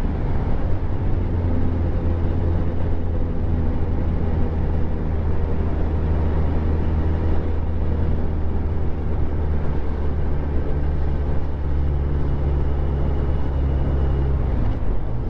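Motorcycle engine running at a steady cruise over rushing wind and road noise. The engine note shifts a few times, just after the start and again around ten seconds in and near the end.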